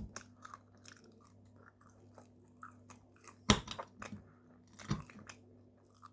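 Close-miked chewing of food, with small wet clicks and two sharper crunches about three and a half and five seconds in.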